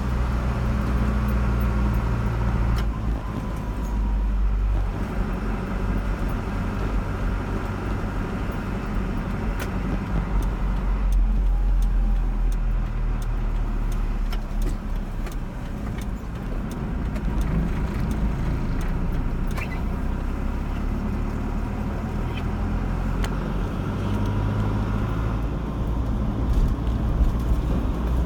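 A car driving along a road: a steady engine hum with tyre and road noise, the engine's pitch shifting a few times as the speed changes.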